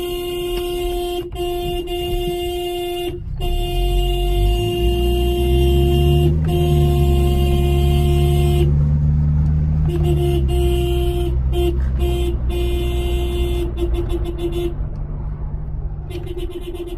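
Car engine heard from inside the cabin, rising in pitch as the car speeds up, holding steady, then easing off. A steady high tone sounds over it most of the time, breaking off briefly several times.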